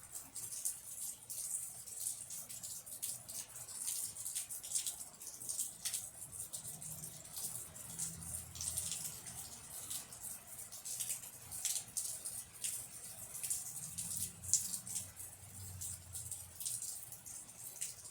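Rain falling, with close drops pattering and dripping in quick, irregular ticks over a steady high hiss. A faint low rumble rises and fades twice, in the middle and again near the end.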